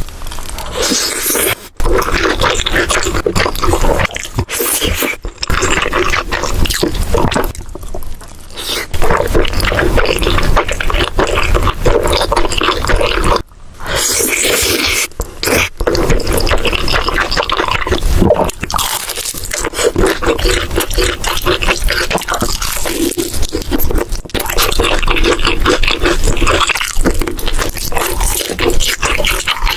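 Close-miked eating sounds: a person chewing and crunching food loudly, with wet, crackly bites. The sound breaks off briefly a few times, about two, eight and thirteen seconds in.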